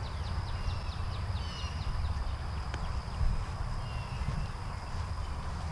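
Outdoor ambience: birds chirping in quick series of short falling notes over a steady thin high insect drone, with a low rumble on the microphone and a single sharp click just before the middle.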